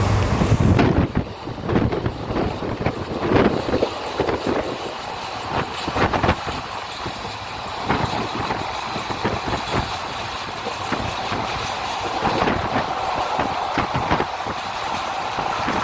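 Ratnachal Superfast Express coach running at speed, its wheels knocking irregularly over rail joints over a steady rush of running noise. A gust of wind buffets the microphone in the first second.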